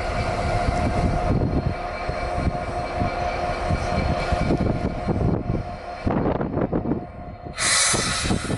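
A train moving through a station, its wheels knocking over the rails, with a steady tone until about six seconds in. A short loud burst of hiss comes near the end.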